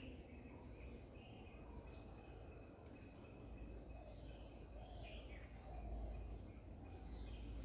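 Faint garden ambience: a steady high-pitched insect drone, with a few short bird chirps scattered through it over a low rumble.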